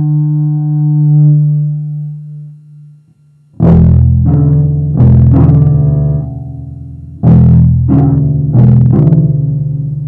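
Handmade double bass played pizzicato: a low held note dies away over the first few seconds, then about a second later comes a run of plucked low notes, each struck sharply and left to ring.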